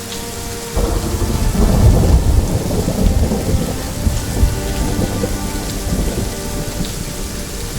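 Steady rain with a roll of thunder that breaks in suddenly about a second in, loudest shortly after, then rumbling on and slowly fading.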